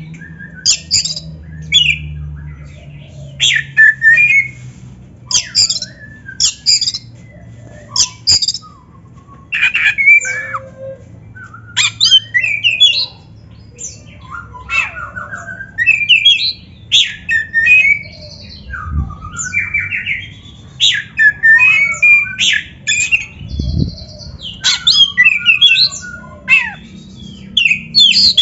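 Oriental magpie-robin (kacer) singing a long, varied song: quick runs of short whistled, trilled and chattering phrases broken by brief pauses.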